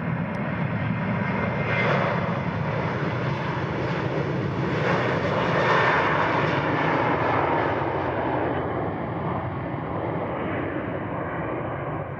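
Airplane engine noise as an aircraft passes: a steady rushing roar that builds to its loudest about halfway through, then gradually fades.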